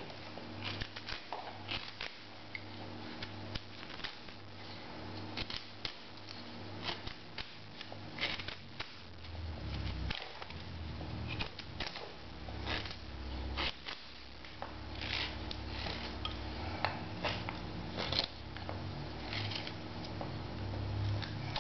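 Freshly sharpened knife carving a small stick of soft wood: a run of short scraping and crackling cuts, irregular and a second or less apart, over a steady low hum.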